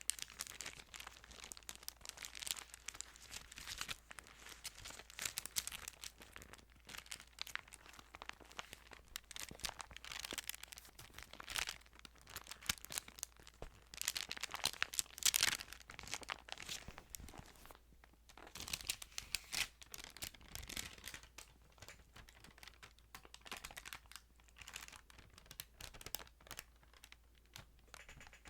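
Thin Bible pages being handled close to the microphone: a steady run of irregular paper rustling and crinkling.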